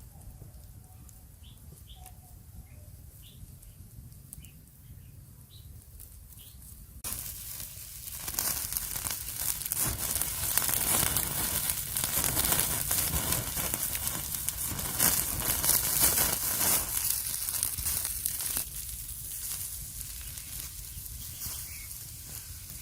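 Faint short bird chirps, then a sudden dense rustling and tearing noise starting about seven seconds in, loudest for about eleven seconds before easing to a lighter rustle near the end.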